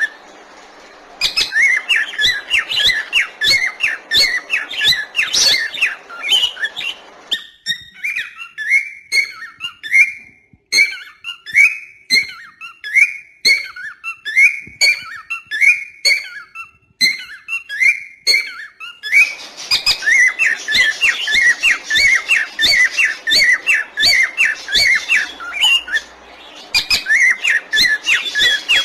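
Small birds chirping rapidly in a dense chorus. In the middle the chorus thins to a run of quick, downward-sliding chirps, then thickens again.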